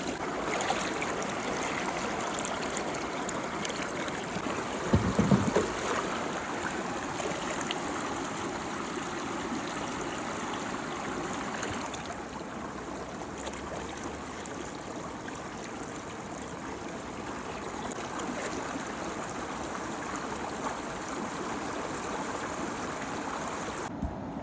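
Water swirling and draining steadily down a muddy whirlpool hole, a continuous rushing gurgle. About five seconds in there is a brief, louder, lower splash.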